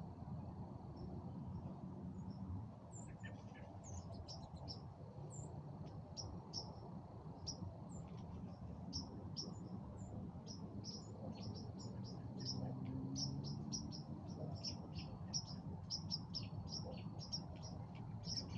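Small birds chirping in quick short calls that come more and more often as it goes on, over a steady low outdoor background hiss. A thin steady high trill sounds under the chirps for the first couple of seconds.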